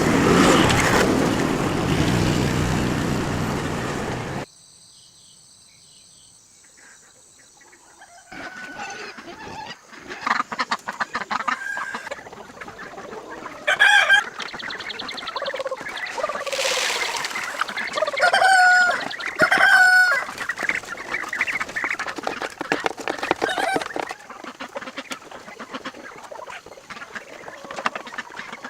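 A loud rushing noise cuts off abruptly about four seconds in. From about eight seconds in, a flock of chickens clucks and calls, with several loud drawn-out calls.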